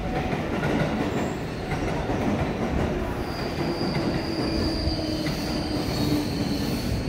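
Electric commuter train rumbling along a station track. About three seconds in, a thin, steady, high-pitched squeal of wheels on the rail begins, with a fainter lower tone under it.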